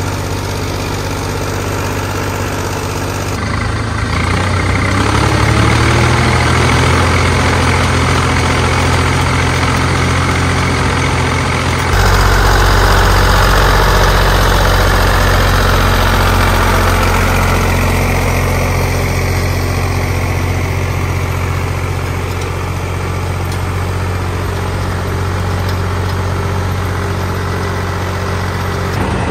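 Zetor 3011 tractor's diesel engine running, its revs rising a few seconds in. The sound changes abruptly about twelve seconds in, then the engine runs steadily under a slightly easing pitch.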